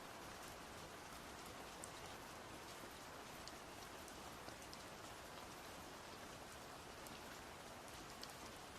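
Faint steady hiss like light rain, with scattered soft ticks.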